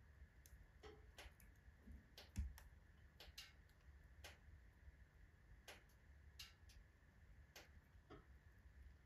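Faint, irregular crackling and snapping of alder and oak logs burning in a wood stove, with one louder low knock about two and a half seconds in.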